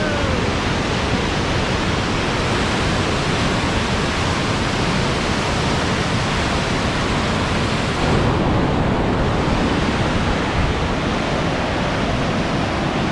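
Steady loud rush of a waterfall and whitewater river. About eight seconds in the sound turns deeper and slightly louder, with less hiss on top.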